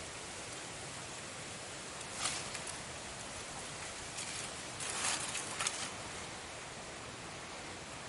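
Leaf litter rustling and crackling in a few short bursts, about two seconds in and again around four to six seconds, over a steady outdoor hiss.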